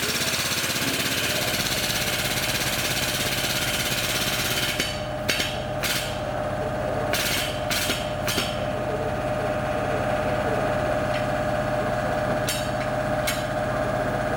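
A power tool used in car bodywork running with a steady whine and a low hum. A loud hiss sounds for the first few seconds, and there are several sharp clicks or knocks in the middle and again near the end.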